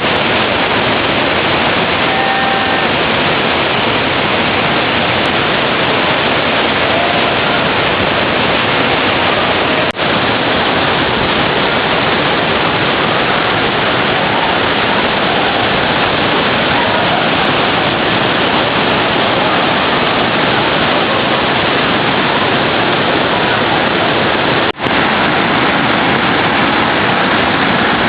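Fukuroda Falls pouring heavily, swollen by heavy rain: a steady, dense rush of falling water. The sound drops out briefly twice, about ten seconds in and again a few seconds before the end.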